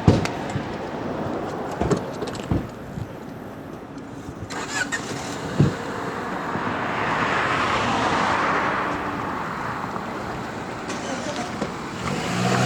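Steady rumble of a passing vehicle, with a few sharp knocks in the first six seconds and a swell of hissing noise that peaks about seven to nine seconds in.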